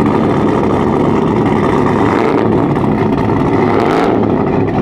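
Loud, steady vehicle engine noise, with a slight rise in the sound about two seconds in.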